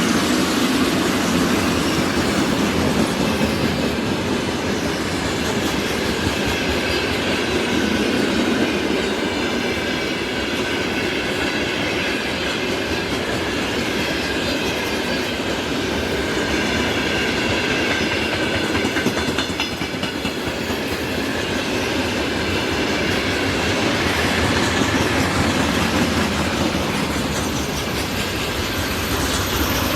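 Long train rolling past close by: a steady rumble of wheels clattering over rail joints, with a thin metallic squeal of wheels on the rail.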